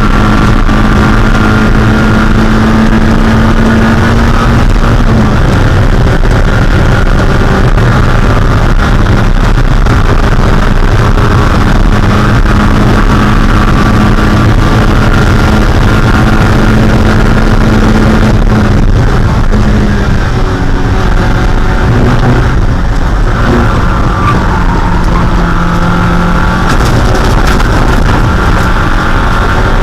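Mazda Miata's 1.6-litre four-cylinder engine running hard at racing speed, heard loud from the cockpit along with wind and road noise. The engine note holds fairly steady, changing pitch a little about five seconds in. About twenty seconds in it drops and runs on at a lower note.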